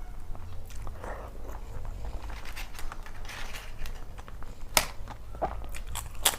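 Close-up eating sounds: wet chewing with scattered crunches of crisp food, and two sharp, loud crunches near the end.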